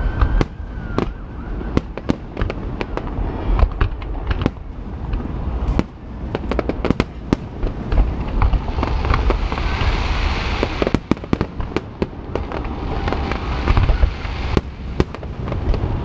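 Fireworks display: a dense run of booms and sharp bangs from aerial shells bursting, over a continuous low rumble. Hissing, crackling effects join in about halfway through and again a little later.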